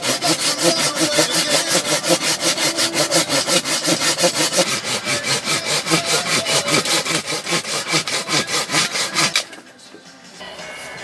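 Wood being cut with a hand saw in quick, even strokes, about four or five a second. The sawing stops abruptly about nine and a half seconds in.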